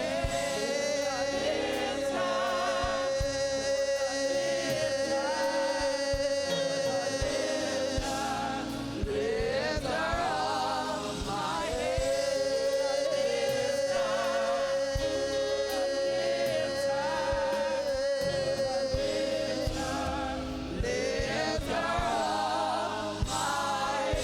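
Gospel choir and congregation singing with band accompaniment, holding long sustained notes with vibrato.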